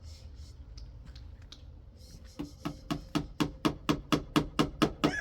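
A chicken clucking in a fast, even run of about four clucks a second that starts about two seconds in and grows louder, after a couple of seconds of faint clicking.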